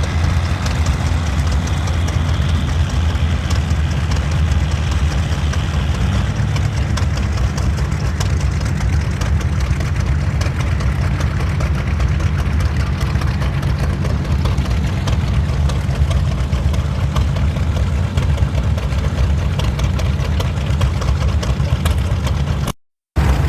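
Vintage tractor engine running steadily with a deep, low drone. The sound cuts out for a moment near the end.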